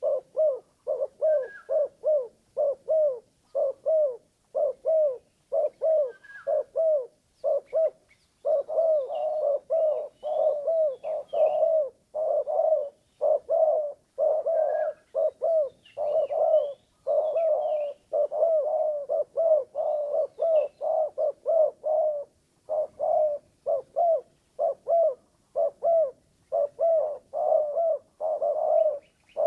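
Spotted dove (terkukur) used as a lure bird, cooing in a long run of short repeated notes, about two a second, running almost without pause in the middle; a call its keeper admits is not sweet to the ear. Faint higher chirps of small birds sound above it.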